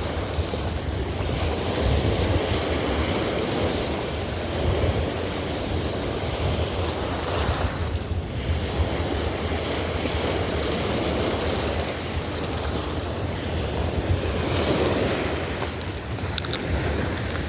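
Steady rush of a fast, rough river current, with wind buffeting the microphone.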